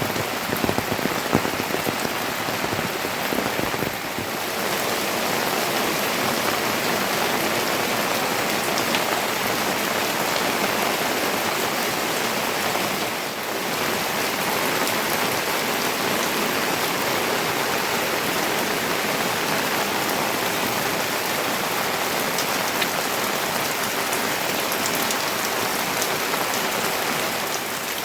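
Steady rain falling, with individual drops pattering on surfaces. The sound dips briefly about four seconds in and again near the middle.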